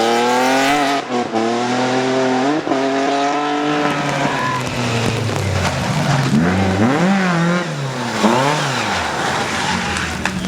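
Rally car engine at full throttle, its note climbing and dropping sharply at gear changes about one and two and a half seconds in. In the second half the engine note rises and falls several times.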